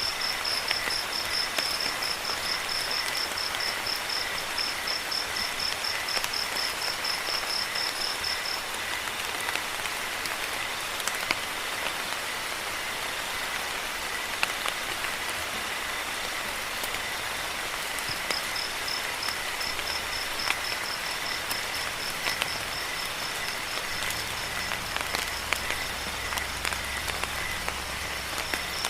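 Steady rain with scattered sharp drips. Crickets chirp in a fast pulsed trill that stops about a third of the way in and starts again past halfway, over a steady high insect tone.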